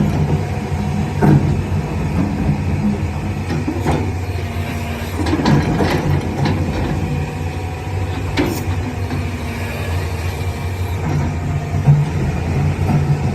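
A 350G midsize excavator's diesel engine running steadily, with several sharp knocks over it, clustered about four to seven seconds in and once more a little later.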